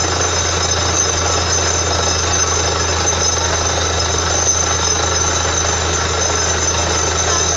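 Borewell drilling rig running: a loud, steady mechanical din with a constant low engine hum underneath, unchanging throughout.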